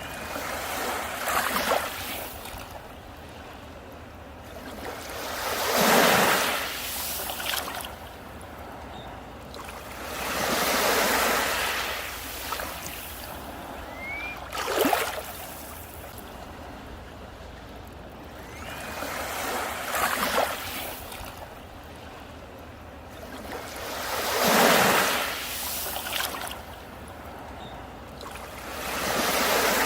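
Sea waves breaking and washing up on a beach, about one every four to five seconds, each one swelling up and then fading away.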